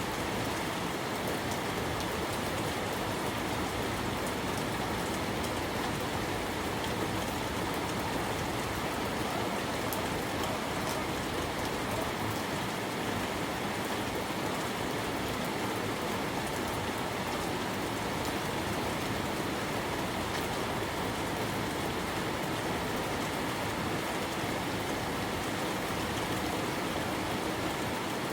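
Steady rain falling, an even hiss with faint drop ticks throughout.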